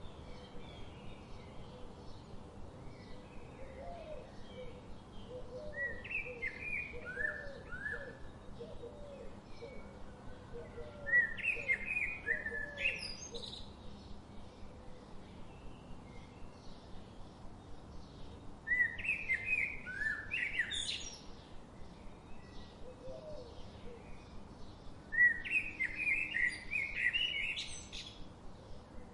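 Wild birds singing: one bird repeats a loud, quick song phrase of two to three seconds about every six to seven seconds, over many fainter chirps from other birds. A run of short, low calls sounds in the first third.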